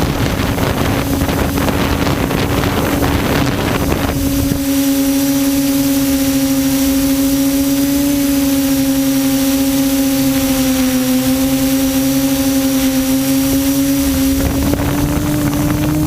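Quadcopter's electric motors and propellers droning at a steady pitch, heard close up from the aircraft, with wind buffeting the microphone for the first few seconds. The pitch shifts slightly near the end.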